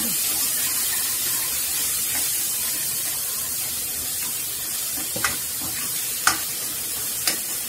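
Onion and tomato sizzling in oil in a metal kadai, a steady hiss, as a steel ladle stirs them. The ladle clinks sharply against the pan three times in the second half.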